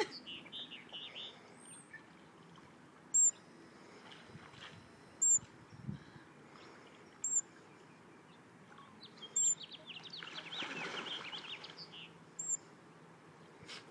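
Sharp, very high single bird chips repeating about every two to three seconds, with a brief burst of quick twittering birdsong about ten seconds in.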